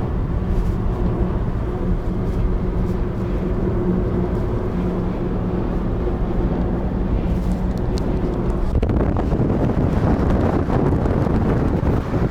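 A car driving along a road, with a steady engine hum and road noise. About nine seconds in, a rougher, louder rushing noise takes over.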